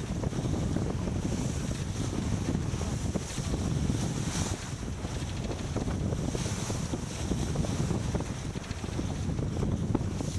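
Wind buffeting the microphone aboard a racing sailboat, with water rushing and splashing along the hull. The rushing hiss swells briefly twice near the middle.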